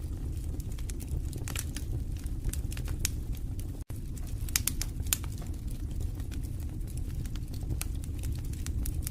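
Wood fire burning in a fireplace: a low steady rush of flame with irregular sharp crackles and pops from the burning logs. The sound cuts out for an instant about four seconds in.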